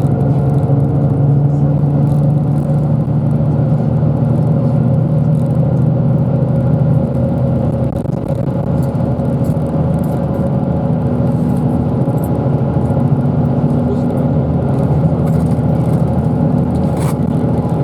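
Bus engine running while the bus drives, heard from inside the cabin as a steady hum; about seven seconds in the engine note changes and drops slightly in level.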